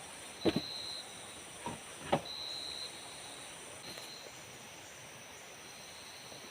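Forest insects buzzing in high, steady bands, one of them swelling and fading. Three sharp knocks come in the first two and a half seconds, the loudest about half a second and two seconds in.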